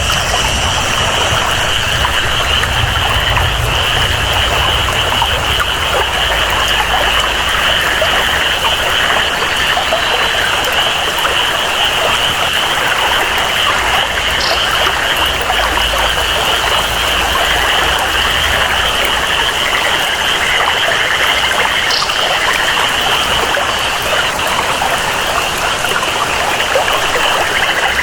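Tropical rainforest ambience: steady rain and flowing water under a continuous high-pitched jungle chorus. A low rumble beneath fades out in the later part, and a few short high calls stand out.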